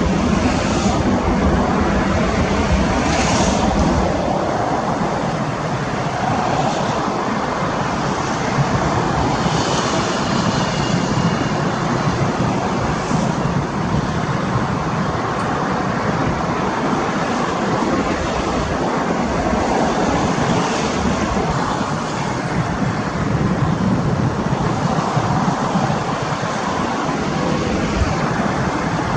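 Jet engine noise from an Airbus A320-232 with IAE V2500 turbofans: a loud, steady roar that holds at much the same level throughout.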